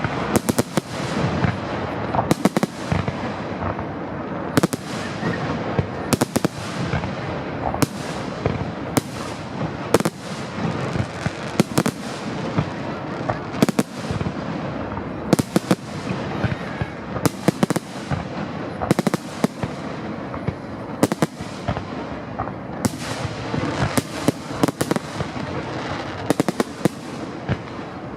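Fireworks finale: aerial shells bursting in rapid succession, loud bangs every second or two with continuous crackling between them.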